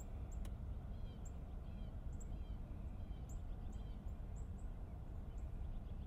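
Birds chirping outside, heard in the quiet cabin of the parked car as short high chirps repeating irregularly over a steady low rumble, with one light click about half a second in.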